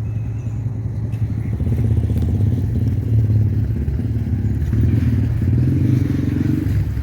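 An engine running with a steady low rumble and a rapid pulsing beat, its pitch shifting slightly now and then.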